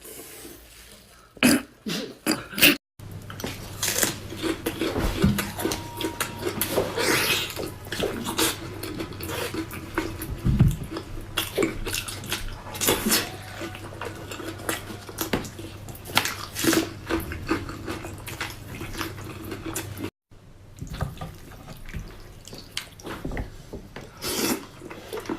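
Close-up eating sounds: wet chewing and mouth smacking in quick, irregular clicks, with a steady low hum beneath for most of it. The sound drops out completely for a moment twice.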